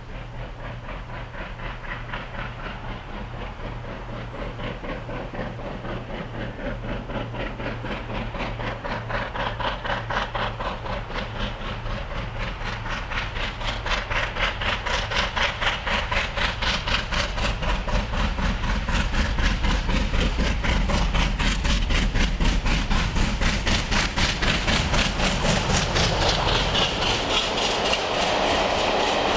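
Steam locomotive 34067 Tangmere, a Bulleid Battle of Britain class pacific, working under steam with fast, even exhaust beats. The beats grow steadily louder as the train approaches, and hiss and train noise build near the end.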